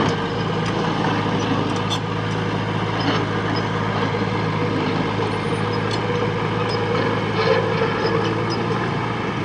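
Heavy-equipment diesel engine running steadily at a constant speed, with a few faint clicks and clanks scattered over it.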